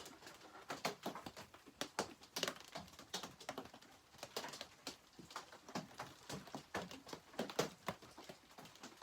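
Rain pattering and dripping on the shop roof: irregular light ticks and taps, several a second with no steady rhythm.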